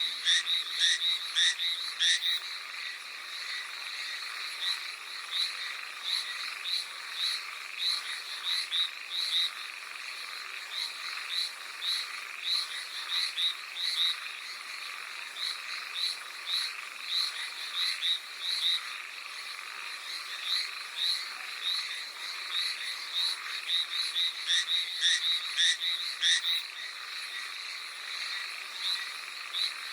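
Hallowell's tree frogs calling: short, repeated calls a few a second, in quicker runs near the start and again late on, over a steady background hiss.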